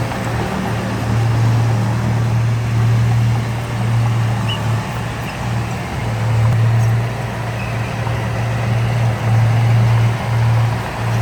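Heavy earthmoving machine's diesel engine running under load, its low drone swelling and easing every second or two.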